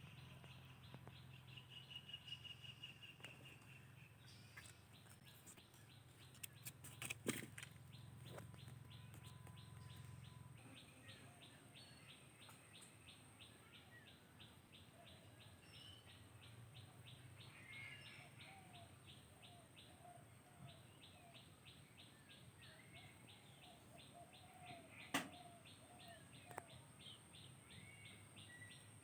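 Faint outdoor ambience: small birds chirping now and then over a rapid, regular pulsing of several beats a second. A few sharp clicks stand out, the loudest about seven seconds in and again near the end.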